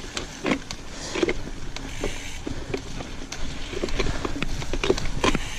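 Mountain bike rolling over a rough trail: a steady low rumble from the tyres, with irregular clicks and rattles from the bike.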